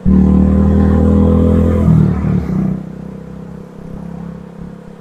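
Motor vehicle engine running loudly with a steady note that starts abruptly and falls away about two seconds in, leaving quieter engine and road noise.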